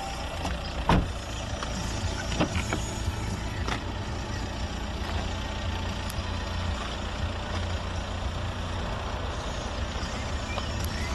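A motor vehicle's engine running steadily with a low rumble. A few sharp knocks come in the first four seconds, the loudest about a second in.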